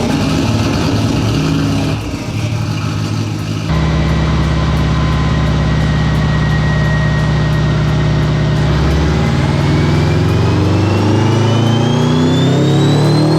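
Turbocharged Subaru EJ-series flat-four running on a chassis dyno: it eases off about two seconds in, holds a steady speed, then from about nine seconds in climbs steadily in pitch as a pull begins, with a high whine rising along with it.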